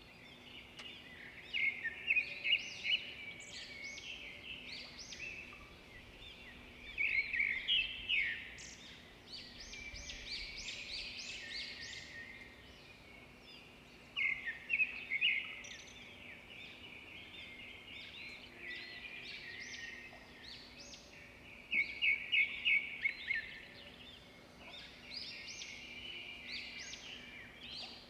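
Small birds chirping and twittering in repeated bursts of quick calls, with louder flurries about 2, 7, 15 and 22 seconds in, over a faint steady hum.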